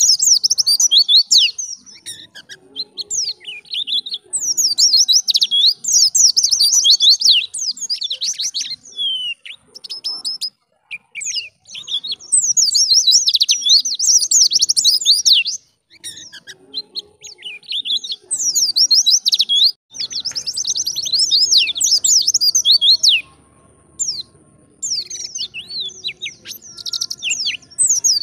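White-eye (pleci) singing: rapid, high twittering song phrases a few seconds long, broken by brief pauses.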